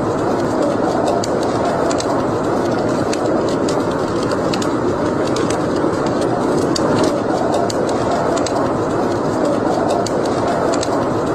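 Wood fire burning in a fireplace: scattered sharp crackles and pops over a steady rushing noise.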